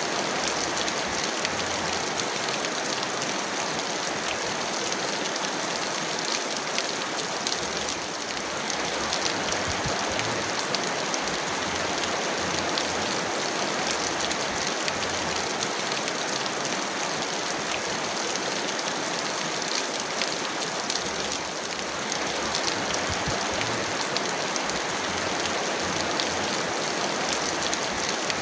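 Heavy rain falling steadily, a dense hiss with many fine, crisp drop impacts.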